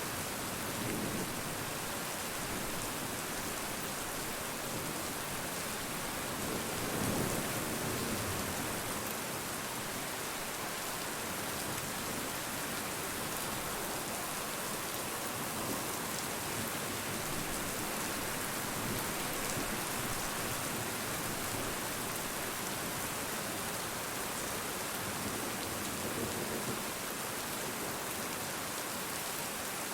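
Steady rain falling and pattering on surfaces, an even rushing hiss, with a few soft low swells, the clearest about 7 seconds in and again near the end.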